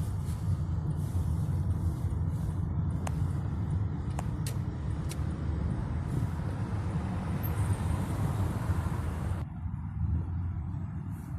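Steady low rumble of a moving road vehicle, heard from inside, with a few sharp clicks; the higher noise drops away abruptly about nine and a half seconds in.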